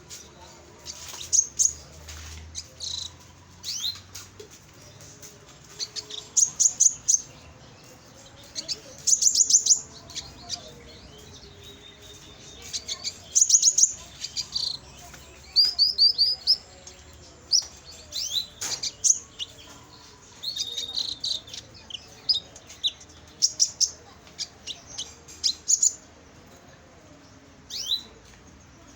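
Canary singing in short bursts of rapid, high trills and chirps, with brief pauses between phrases.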